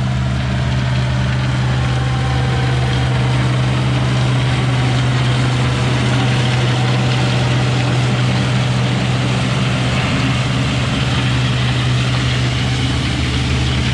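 A combine's diesel engine running at a steady, unchanging speed, with a low hum.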